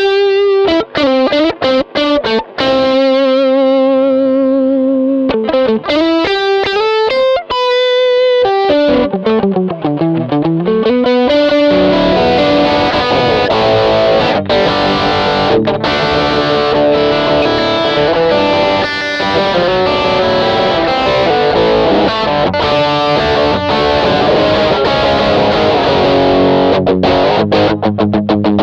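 Electric guitar played solo through an MXR Rockman X100 pedal in its slightly driven 'edge' range, giving a compressed, mid-focused tone with little low end. Single held notes with vibrato and bends come first; from about twelve seconds in the playing turns denser and faster.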